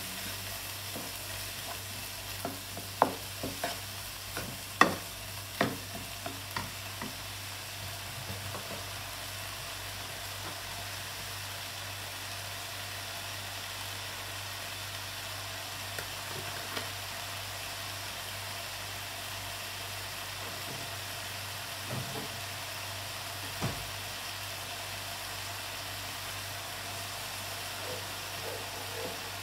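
Minced pork ham and onions frying in a pan over a gas flame with a steady sizzle. A wooden spatula knocks and scrapes against the pan several times in the first few seconds, and a few more times later on.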